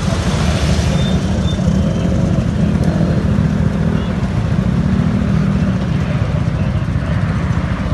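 Vehicle engine running steadily throughout, its note shifting a little around the middle.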